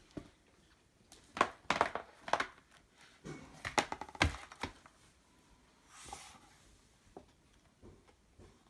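Handling noise: a scatter of short rustles, crinkles and light knocks, most of them in the first half, as of paper or a book being handled.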